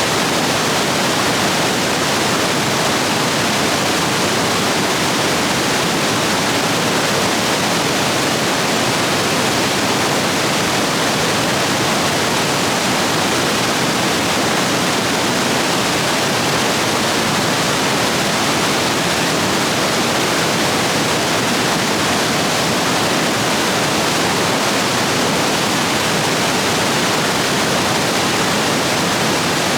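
Rain-swollen stream rapids rushing over rocks: a steady, loud, unbroken wash of water noise.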